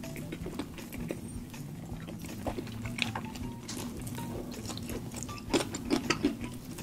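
Close-miked eating sounds: chewing with irregular wet mouth clicks and smacks, a cluster of louder ones near the end.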